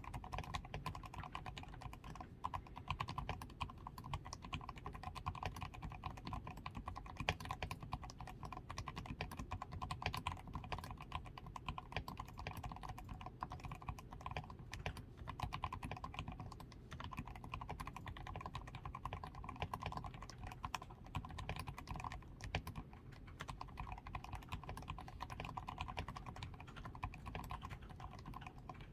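Steady fast typing on a DAREU A87 Pro mechanical keyboard: a dense, continuous run of key strokes. The keyboard has fully lubed switches (Krytox 205 is not named here; Krytox 105), a tape-modded PCB, foam-reinforced switches, lubed stabilizers and XDA keycaps.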